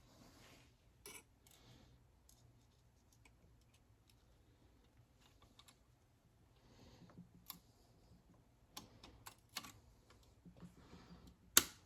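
Sparse light metallic clicks and taps of tools and transmission parts being handled while a large snap ring is fitted, with a sharper click near the end.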